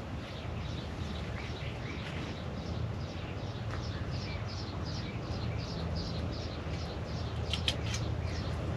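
A songbird singing a long run of short, repeated falling notes, about two to three a second, over a steady low hum. There is one sharp click near the end.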